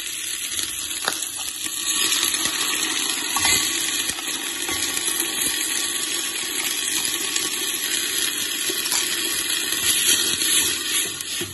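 Onions, garlic, mustard seeds and curry leaves sizzling in hot oil in a steel handi: a steady hiss with a few faint clicks.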